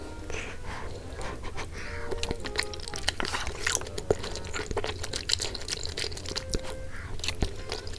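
Scattered clinks and taps of utensils against dishes, some ringing briefly, typical of serving or eating a bowl of soup.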